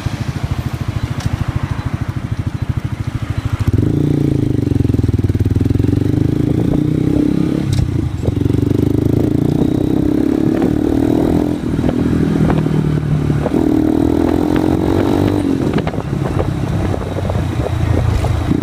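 Honda Grom's single-cylinder four-stroke engine through a straight-through dual-outlet X-Speed exhaust with the baffles removed: a loose, pulsing idle, then about four seconds in a louder, harder note whose pitch climbs and drops back several times.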